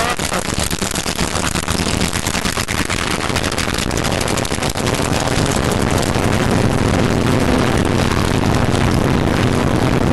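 Piston-engined propeller aircraft taxiing, its engine running steadily with a dense, rapid firing rumble that grows a little louder about halfway through.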